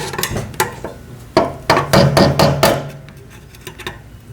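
Hammer striking metal, a single blow near the start, then a quick run of taps about four a second, with a short metallic ring after each. It is knocking loose the retaining ring that holds the fuel pump and sending unit assembly on top of the fuel tank.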